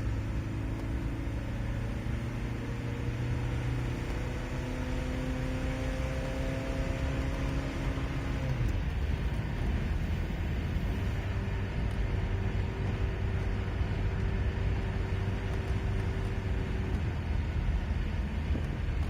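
Volvo B234 16-valve 2.3-litre four-cylinder engine pulling under load uphill, its note rising slowly for about eight seconds and then dropping away suddenly as the throttle comes off or a gear changes. After that the car runs on more steadily with a low rumble and a faint steady hum.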